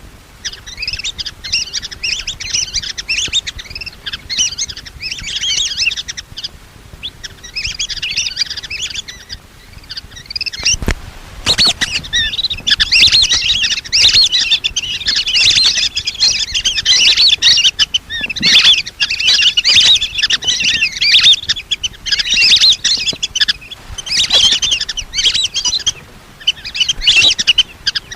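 Lesser whistling ducks calling: a flock's high, whistling chirps in rapid overlapping bursts with short pauses, a recording used as a hunter's lure call. A single sharp knock about eleven seconds in.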